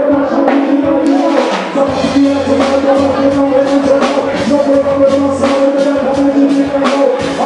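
Reggae music played loud over a sound system, with a drum beat, a bass line that drops in and out, and two held tones.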